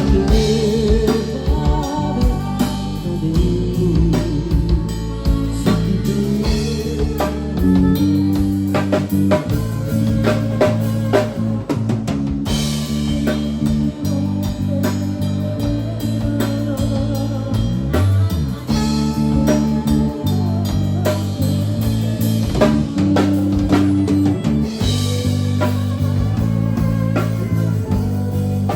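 Live band playing a song with guitar, bass and drum kit, keeping a steady beat.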